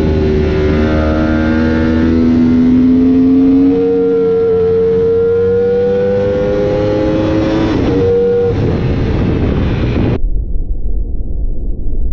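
Racing motorcycle engine at high revs, its pitch climbing steadily as it accelerates, with a brief break about eight seconds in. About ten seconds in the engine sound cuts off abruptly, leaving a low, rough rumble of wind on the microphone.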